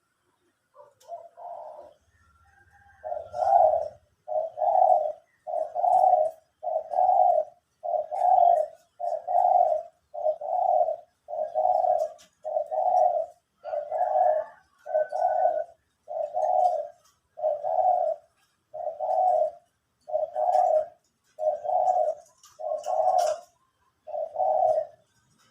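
A dove cooing in a long, steady series of evenly spaced coos, a little more than one a second. It starts with a softer call, then settles into the regular rhythm. Faint chirps from other birds sound between the coos.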